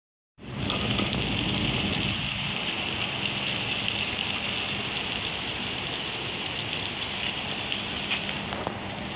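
Battered pieces frying in hot oil in a deep pan on a portable gas stove: a steady, even sizzle with a faint low hum under it.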